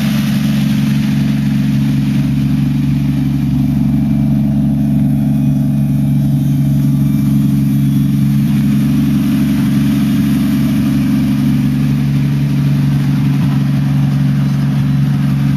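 Toyota 1JZ-GTE 2.5-litre inline-six with a single GT35R turbo, idling steadily with no revving.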